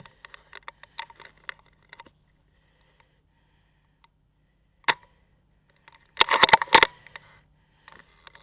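Airsoft gunfire: a single sharp shot about five seconds in, then a quick burst of rapid shots about a second later. Faint light clicks come in the first two seconds.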